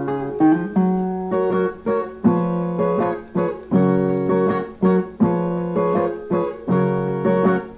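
Brazilian viola playing an instrumental passage of plucked notes and strummed chords in a steady rhythm, with no singing.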